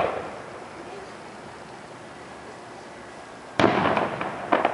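Fireworks going off: a sharp bang at the start that fades out, then about three and a half seconds in a loud burst of rapid crackling pops, followed by a few more sharp cracks near the end.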